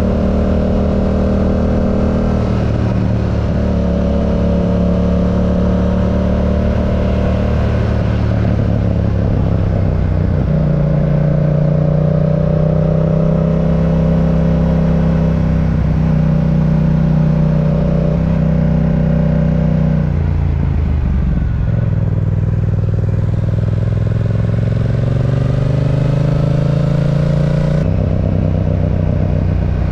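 Yamaha R7's 689 cc parallel-twin engine running on the road, its note rising and falling with throttle and gear changes. The pitch climbs for several seconds and then drops suddenly near the end, as on an upshift.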